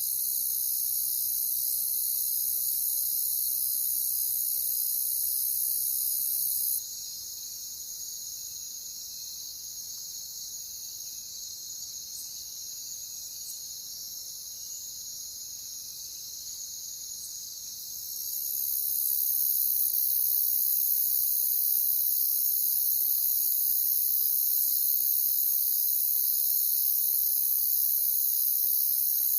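Chorus of crickets chirping steadily. The highest-pitched part of the chorus drops away about seven seconds in, leaving it quieter, and comes back in around eighteen seconds in.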